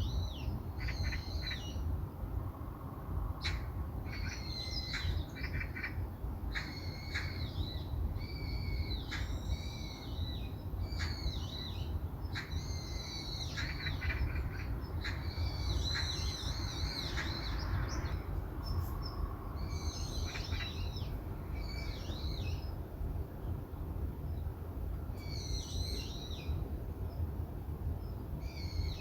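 Birds calling, a run of short chattering calls again and again with a couple of brief pauses, over a steady low rumble.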